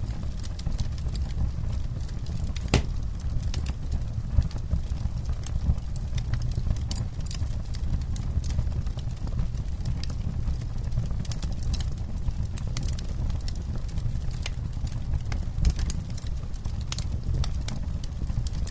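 Campfire crackling: irregular sharp pops and snaps from the burning wood, one louder pop about three seconds in, over a steady low rumble.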